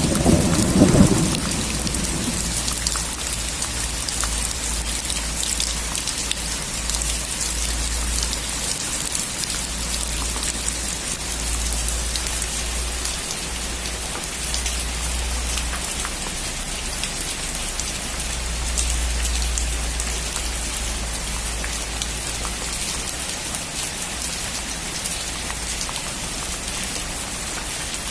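Steady rain falling as an even hiss, with a rumble of thunder dying away in the first two seconds.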